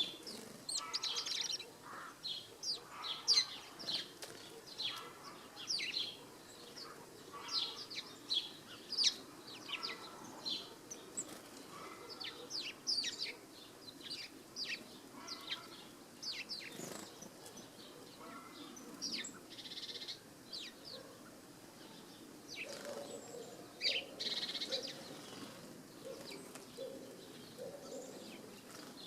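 Small garden birds chirping and singing in quick, high notes, with a run of lower, evenly repeated notes in the last several seconds.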